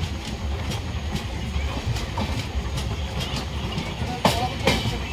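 Indian Railways express train coaches running along the track, heard from aboard: a steady low rumble with wheels clacking over rail joints, and two loud clacks close together about four seconds in.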